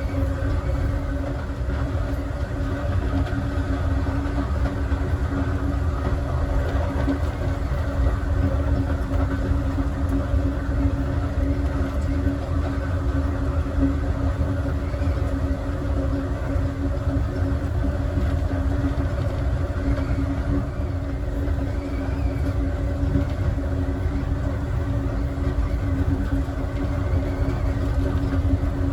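Passenger train car in motion, heard from inside the last car: a steady low rumble of the wheels on the rails with a constant hum through the car.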